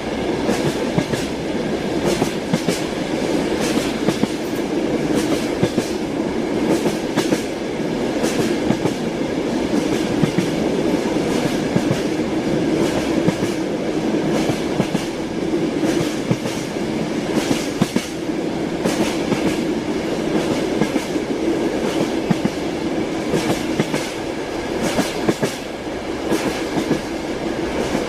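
Train wheels running over the rails, heard from inside a moving railway carriage: a steady rumble with frequent sharp clicks and knocks of the wheel clatter.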